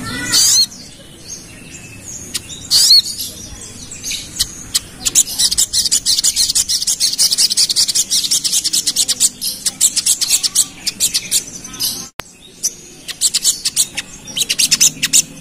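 Crimson sunbird (sogon) singing its rapid chattering 'ngerap' song: long runs of fast, high ticking notes, with a few louder sweeping call notes near the start and a short break about twelve seconds in.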